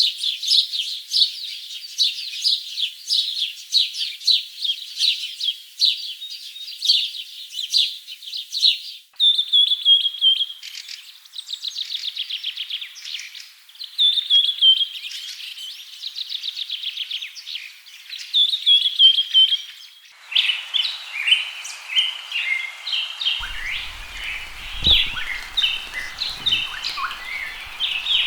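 Wild forest birds singing, a dense run of rapid high chirps and trills. The sound changes abruptly about nine and twenty seconds in, and the last part has a steady hiss behind the calls.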